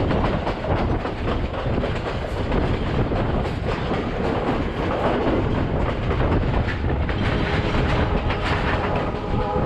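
A train running along the track: a steady rumble with wheels clacking over the rail joints.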